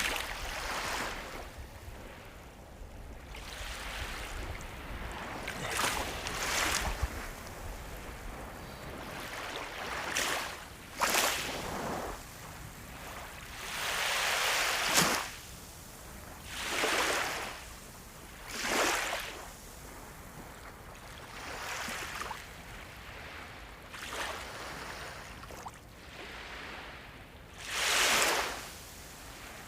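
Ocean waves breaking and washing on the shore. Surges of surf hiss rise and fall every couple of seconds, and the strongest one comes near the end.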